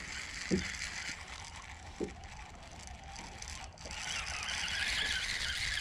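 Fishing reel being cranked to bring line in, a steady mechanical whir with a few faint knocks.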